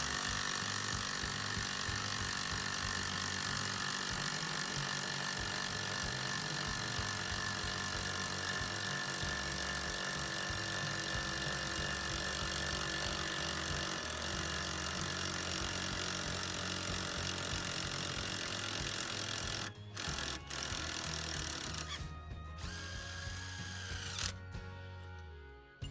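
Power driver running steadily, winding the car jack's screw to lower the jack. It stops briefly about twenty seconds in, runs again more lightly, and stops just before the end.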